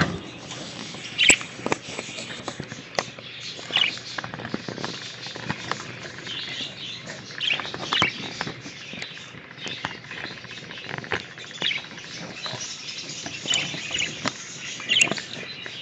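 English budgerigars chirping and chattering, with short sharp chirps every second or so and scattered clicks and scratches among them.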